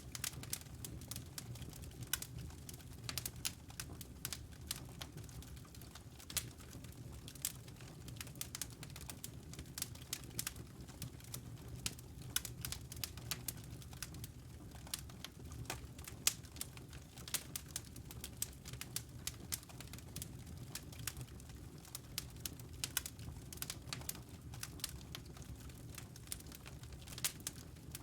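Fireplace crackling: a wood fire giving off irregular sharp pops and snaps, several a second, over a steady low rumble.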